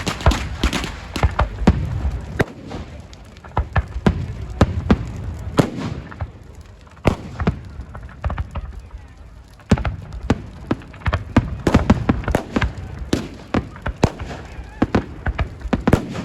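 Fireworks going off: a rapid, irregular series of sharp bangs and crackles, with crowd voices underneath.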